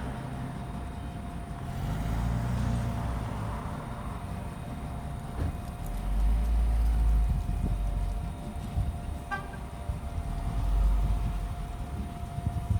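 A puppy gnawing on a bone, with low thudding rumbles and a few sharp clicks over a steady background hum.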